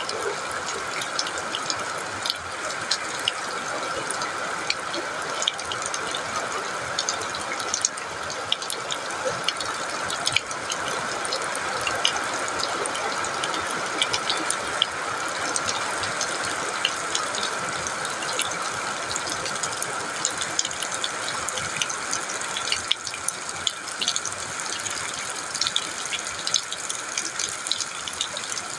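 Steady rainfall, a continuous hiss with many small drops ticking sharply on hard surfaces.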